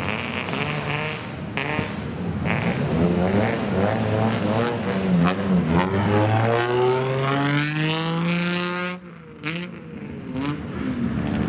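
Engine and exhaust of a customised kaido racer car revving: a few short blips up and down, then one long climb in pitch over about three seconds that cuts off sharply, followed by a couple of sharp cracks.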